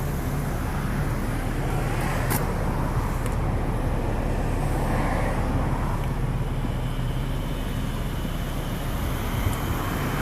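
Steady motor-vehicle hum with outdoor background noise.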